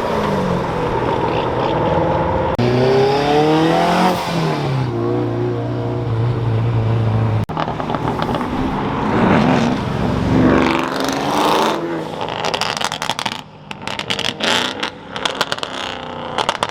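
Performance car engines revving hard and accelerating past, the engine pitch climbing and then dropping as each car goes by. Near the end comes a fast, irregular run of short, sharp cracks.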